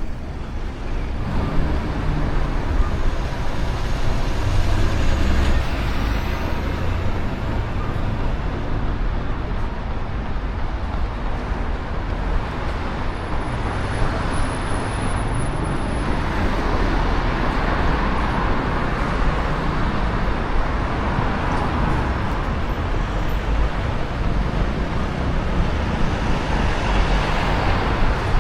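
Steady city road traffic noise with a strong low rumble. A vehicle swells louder and passes in the middle stretch.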